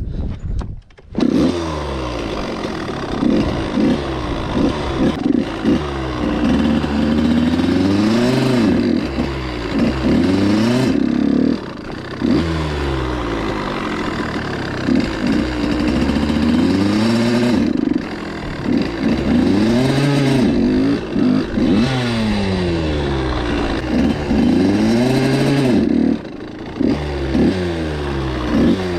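Suzuki RM85 two-stroke single-cylinder dirt bike engine fires up about a second in, then revs up and drops back over and over as it is ridden, the pitch climbing and falling repeatedly with short let-offs of the throttle.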